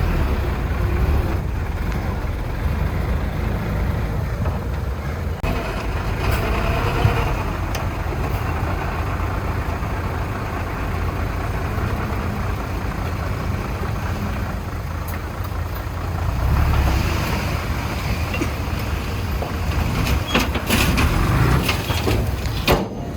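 Heavy diesel earthmoving machinery running steadily under load, with a few short knocks near the end.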